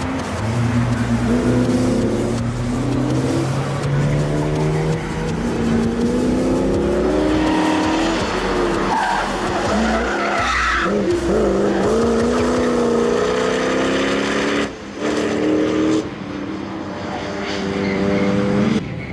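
Mercedes-Benz SL500 (R129) M119 V8 revving hard, its pitch rising and falling again and again as the car is driven through corners, with tyres squealing as it slides around the middle. The sound breaks off sharply a few times near the end.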